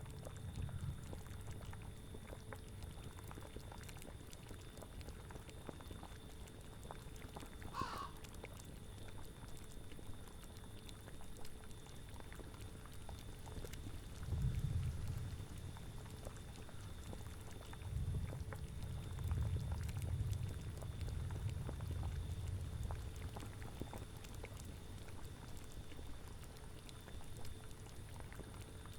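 Layered Halloween soundscape: a cauldron bubbling with small pops and clicks, and low gusts of wind swelling twice, around the middle and again a few seconds later. A single brief animal call comes about eight seconds in.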